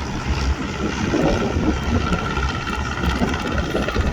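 Wind buffeting the microphone in gusts, with a faint steady tone behind it.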